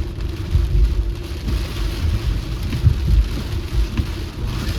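Rain and road noise from a car driving in the rain: a steady low rumble of tyres and engine with a constant hum, under the hiss of rain.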